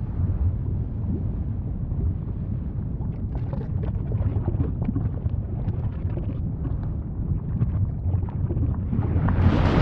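Volcano rumbling low and steady, with scattered crackles through the middle; near the end a louder rushing roar swells in as a bigger eruptive burst begins.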